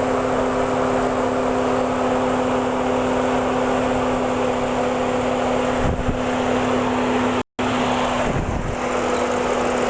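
Six-cylinder car engine idling with a steady whine over its rumble; the engine has a cylinder misfire. The sound cuts out briefly about three-quarters of the way through.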